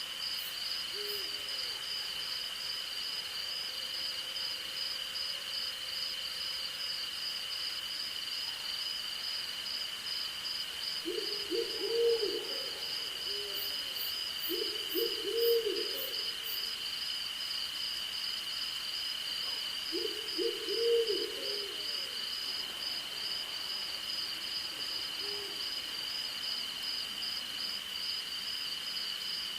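An owl hooting in three short clusters of quick hoots, the first about a third of the way in, the next soon after and the last past the middle, with a few faint single hoots besides. Under it runs a steady night chorus of crickets and other insects: one even high trill with a faster pulsing trill above it.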